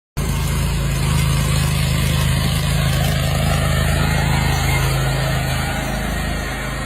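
Engine running steadily at a constant speed, with a low hum.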